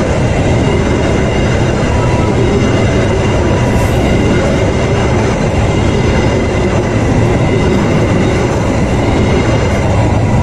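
Passenger train's stainless-steel coaches rolling past close by, wheels running on the rails with a loud, steady rumble.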